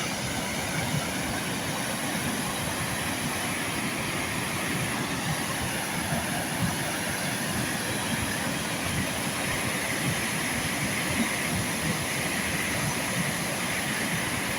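Steady, unbroken rushing of a fast-flowing river.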